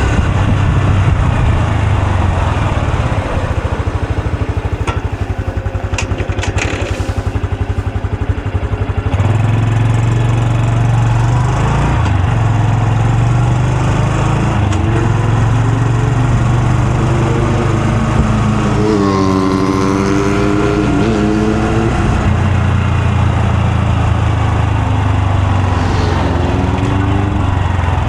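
Honda Super Cub C125's single-cylinder engine and exhaust running while ridden, its note rising and falling with the throttle. A clear climb and drop in pitch comes about two-thirds of the way through.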